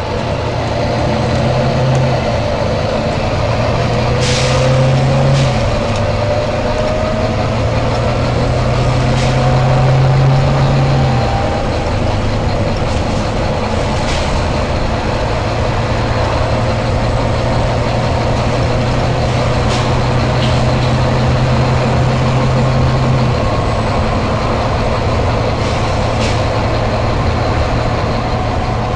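Volvo B9TL bus running, its diesel engine note stepping up and down, with a whine rising in pitch over the first few seconds. Several short air hisses from the bus's air system come through, the longest about four seconds in.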